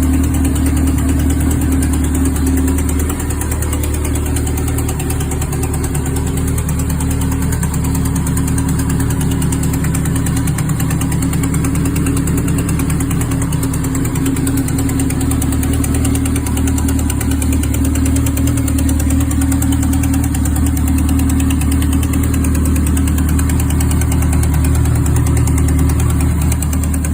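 Kawasaki KZ1000H's fuel-injected, air-cooled inline-four engine idling steadily and evenly, running well.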